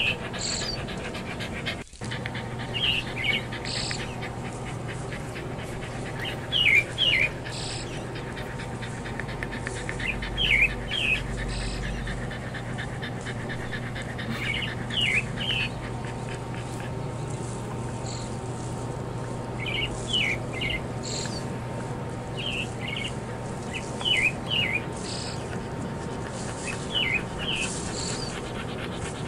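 Small birds chirping in short bursts of quick notes every few seconds, over a steady outdoor background hum.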